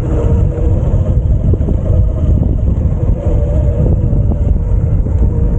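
Wind buffeting the microphone of a rider on a moving e-bike, a loud steady rumble with a faint steady whine from the bike beneath it.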